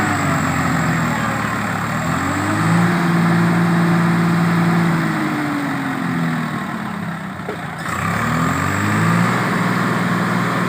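Swaraj tractor's diesel engine revving. The revs climb and hold for a few seconds, drop back, then climb again about eight seconds in.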